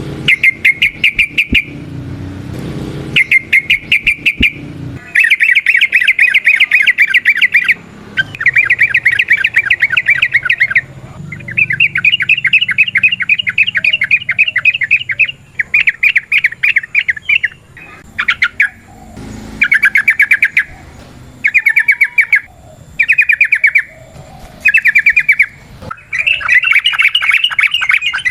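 Yellow-vented bulbul singing its rapid 'ropel' song: bursts of fast, repeated chattering notes, each lasting about one to four seconds, with short breaks between.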